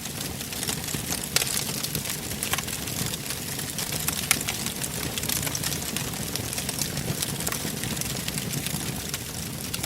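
Wood fire burning in a fireplace: frequent sharp crackles and pops over a low, steady rumble of the flames, with a couple of louder snaps.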